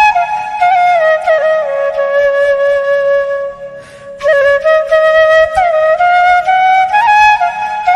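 Background music: a solo flute playing a slow melody, pausing for a breath about halfway through before carrying on.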